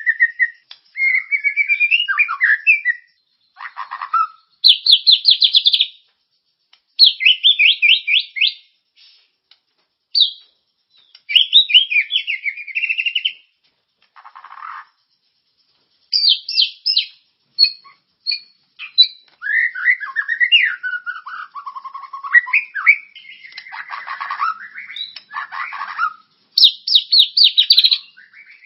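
Recorded songbird song from a masteran training track for white-rumped shamas: phrases of fast trills and whistled glides rising and falling in pitch, separated by short pauses.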